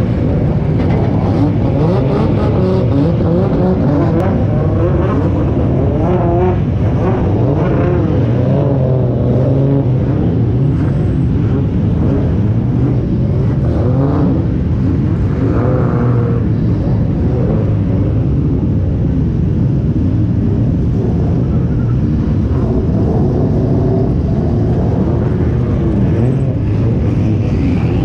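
Drift car engines running at low revs, loud and steady with small wavers in pitch, as cars roll slowly past the camera car.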